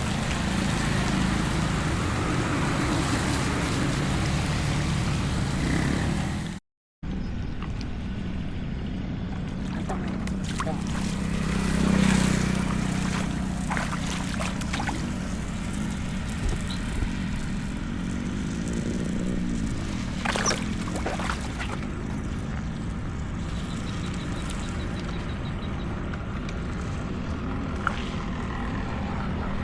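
Heavy rain and running water hiss for the first several seconds. After an abrupt cut, a motor vehicle's steady engine hum takes over, with a swell as a vehicle passes close about twelve seconds in and scattered sharp clicks.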